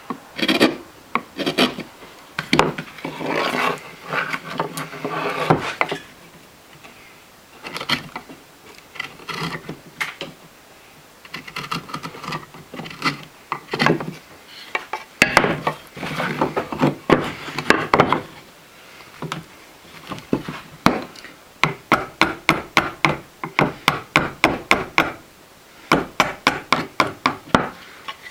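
Knife blade scraping and shaving wood by hand: long scraping passes, then runs of short quick strokes, about three a second near the end.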